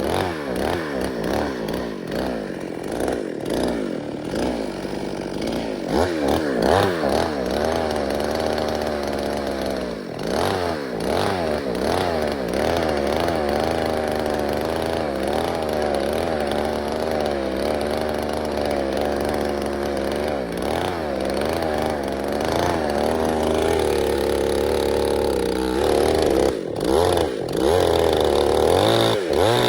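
Chainsaw engine running with its pitch rising and falling again and again as the throttle goes up and down, over a steady low engine hum.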